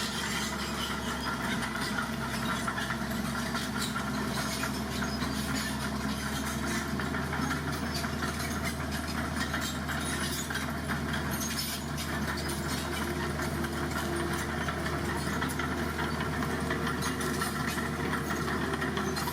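Dump truck engine running steadily at an even pitch.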